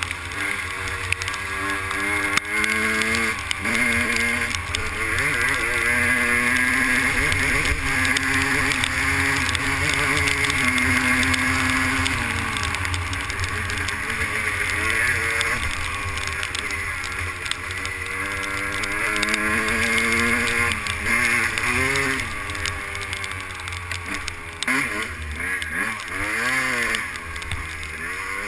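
Two-stroke 250 cc motocross bike engine being ridden hard, its pitch climbing and dropping again and again with the throttle and gear changes, with quick rev blips near the end. A steady hiss runs underneath.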